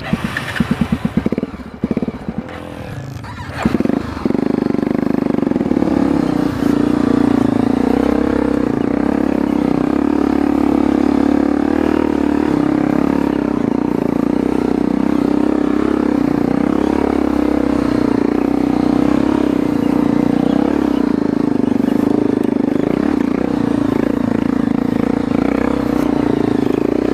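Off-road motorcycle engine revving in short uneven bursts, then running steadily at constant revs from about four seconds in.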